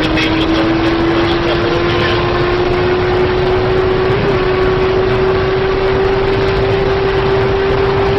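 A motor vehicle engine running with a strong, steady rushing noise, its single tone rising slowly in pitch.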